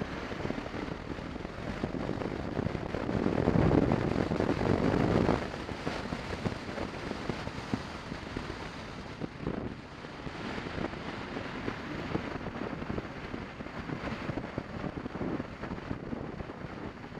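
Wind rushing over the microphone of a moving motorcycle, with the engine running underneath. It gets louder for about two seconds a few seconds in.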